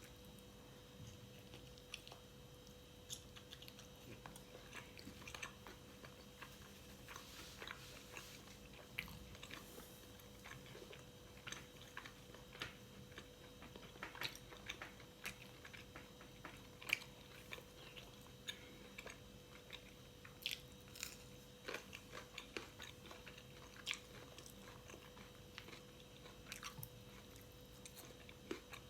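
Close-miked chewing and biting of fried pork, with many short crunchy and wet mouth clicks scattered irregularly throughout.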